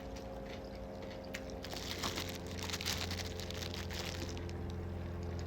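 A person chewing food close to the microphone, with scattered wet smacking clicks and a denser crunchy stretch about two seconds in.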